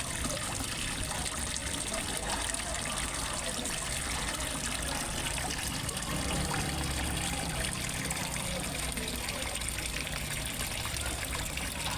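Water steadily trickling and splashing into a fish pond, a continuous even rush with no breaks.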